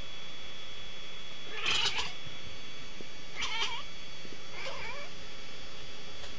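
A cat meowing three times, each call short and wavering in pitch, about a second and a half apart.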